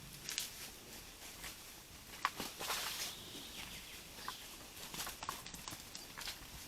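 Wild boar moving through leaf litter: faint rustling with scattered light clicks, one sharper click about two seconds in.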